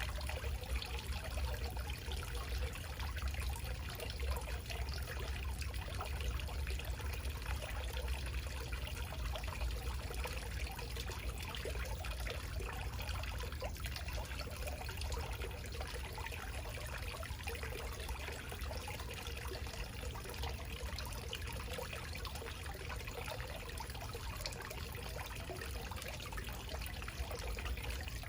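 Small backyard waterfall: water trickling and splashing steadily, without pause or change.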